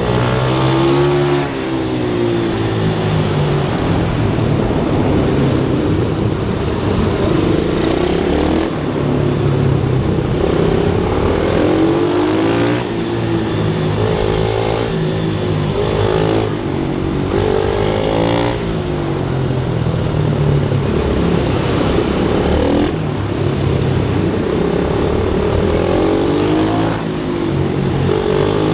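Pit bike engine ridden hard around a track, revving up in repeated rising sweeps and dropping back every couple of seconds as it accelerates and shifts.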